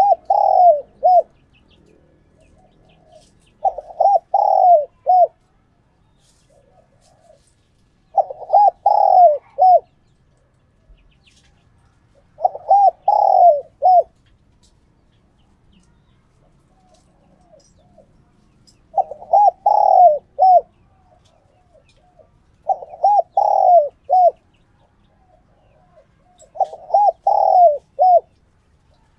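Spotted dove cooing: a captive decoy male repeating its phrase of several falling coos seven times, about every four seconds, with a longer pause midway, and softer coos between the phrases.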